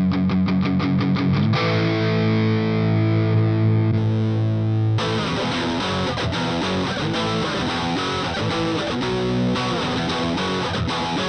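Stratocaster electric guitar played through a Valeton Dapper mini pedal with distortion. It starts with quick repeated picked notes, lets a chord ring from about a second and a half in, then goes into a busy riff about five seconds in.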